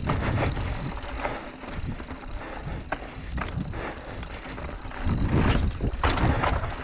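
2018 Scott Genius 900 Tuned mountain bike ridden over rough, rocky trail: a steady rumble with sharp knocks and rattles about a second in, near three seconds, and about six seconds in. A louder low rumble swells about five seconds in.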